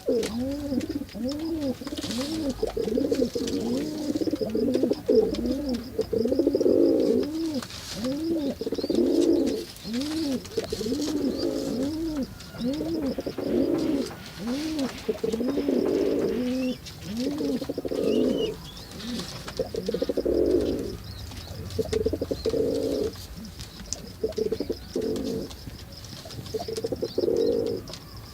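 Pigeons cooing over and over, a long run of rising-and-falling coos in close succession, breaking into shorter bouts with brief pauses in the second half.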